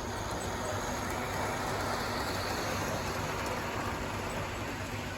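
G-scale LGB model train running on its track: a steady rolling rumble of wheels on rails with the hum of its motor.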